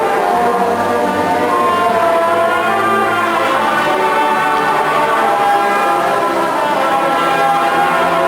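Marching band brass section playing slow, held chords.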